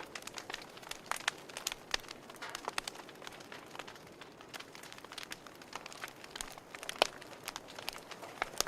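Fire crackling in a fireplace: irregular sharp pops and snaps over a soft steady hiss, with one louder pop about seven seconds in.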